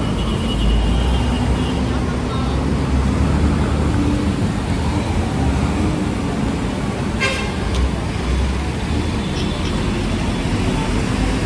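Busy street traffic: vehicle engines running in a steady low rumble. A short horn toot sounds near the start and again later on.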